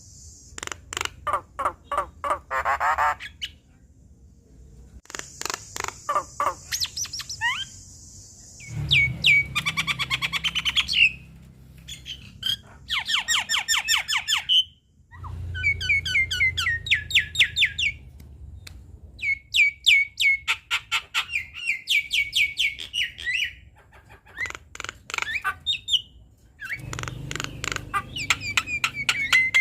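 Javan myna singing in a varied full repertoire: bouts of rapid repeated notes, whistles and harsh chattering calls, each a few seconds long, with short pauses between.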